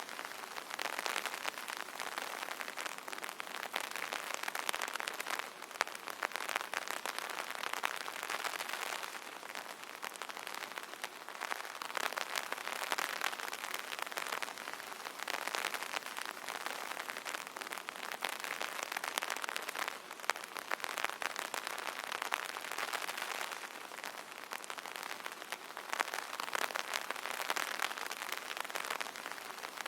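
Rain pattering steadily on an umbrella canopy, a dense spray of fine drops that swells and eases gently every few seconds.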